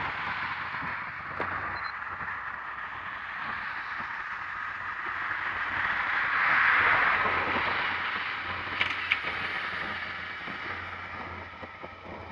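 A vehicle passing by: a rushing noise that builds to a peak about halfway through and then fades away, with a couple of sharp clicks shortly after the peak.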